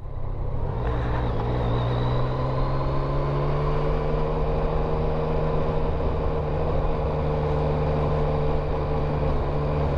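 Yamaha MT-09's inline three-cylinder engine running steadily, rising slightly in pitch over the first few seconds and then holding an even note.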